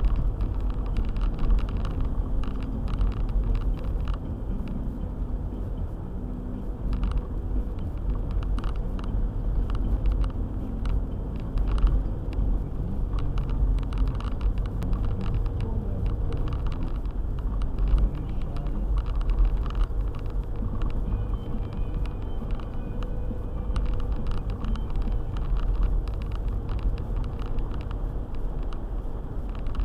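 Four-wheel-drive car driving on a snowy road: a continuous low rumble of engine and tyres, with many small sharp ticks scattered throughout.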